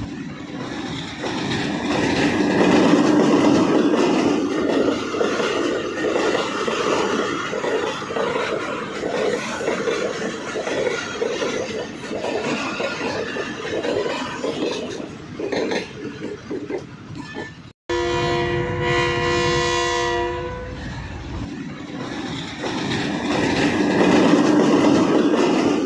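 Pakistan Railways train running along the track, its wheels clattering over the rails. About eighteen seconds in, right after a brief break in the sound, the train's horn sounds for about two seconds, then the running noise carries on.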